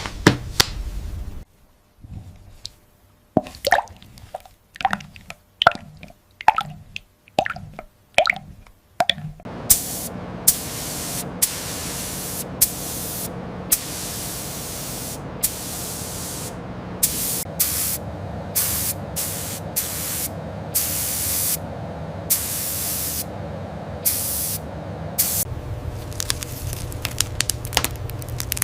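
A run of short, separate drip-like clicks. From about a third of the way in, a sandblasting gun fires in repeated short bursts of hissing air, stopping and starting every second or so over a steady background noise.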